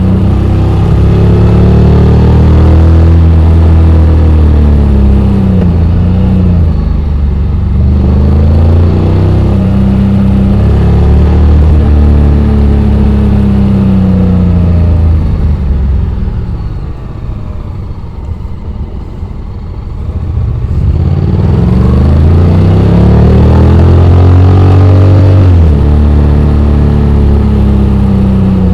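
Honda X-ADV 750's parallel-twin engine, its note rising and falling repeatedly as it accelerates and eases off on a downhill road. About two-thirds through it drops to a quiet coast, then pulls up in pitch again.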